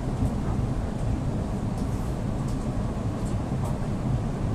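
Interior noise of an EP2D electric multiple unit running along the track: a steady low rumble from the wheels and running gear, with a few faint short high ticks here and there.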